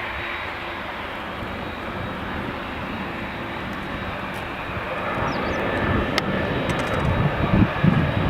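Boeing 767 airliner's jet engines running on its landing approach, a steady rumble that grows louder from about five seconds in as the aircraft nears.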